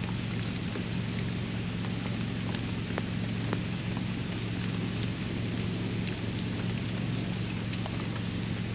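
Steady rain falling on a backyard pond, with scattered individual drops ticking and plinking, over a steady low hum.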